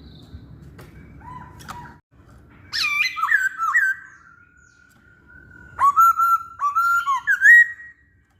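Masked laughingthrush (Poksay Hongkong) singing: two loud bursts of whistled notes with quick upward and downward pitch hooks, the first about three seconds in and the second, longer, about six seconds in, joined by a thin held whistle.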